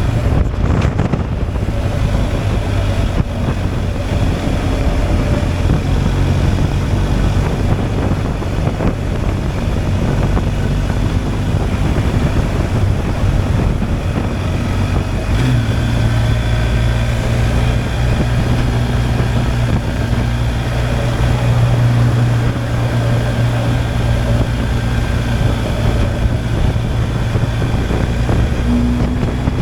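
BMW R 1250 GSA's boxer-twin engine running as the motorcycle rides along, with wind noise on the microphone; the engine's low note grows louder about halfway through.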